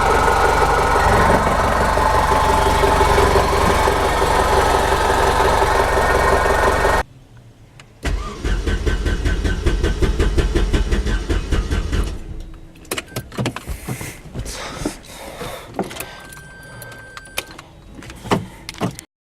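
Car engine running with a strange noise, heard in two takes with a cut about seven seconds in; the second take has a fast, even clatter. The owner suspects the timing belt has skipped out of time. The engine stops about twelve seconds in, followed by scattered clicks and knocks.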